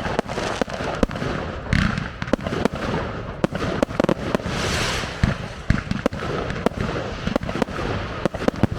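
Aerial fireworks bursting in quick succession: many sharp bangs and crackles, several a second, with a couple of longer hissing bursts.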